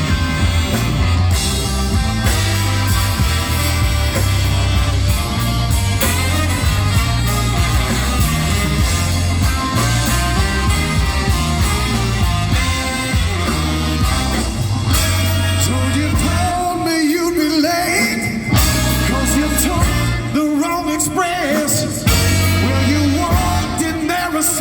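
Live horn band playing a rhythm-and-blues number during an instrumental break, horns over a steady bass and drum beat.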